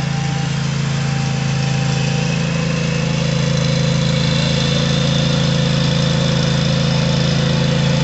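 An engine running steadily at a constant speed, growing slightly louder.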